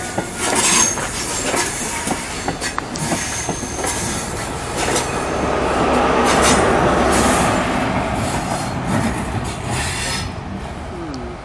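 A GWR passenger train's coaches passing close at low speed, wheels squealing briefly a couple of times and clicking over the rail joints. The rumble builds to its loudest a little past halfway and fades near the end.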